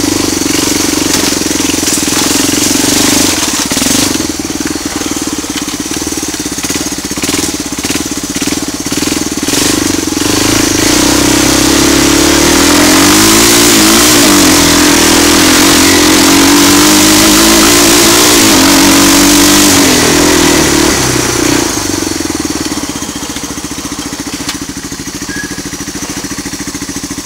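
Four-wheeler ATV engine running loud through a homemade straight-pipe exhaust, a short pipe with the stock muffler's baffle reused inside like a small glass pack. The engine revs up and down several times in the middle, then settles back lower and quieter near the end.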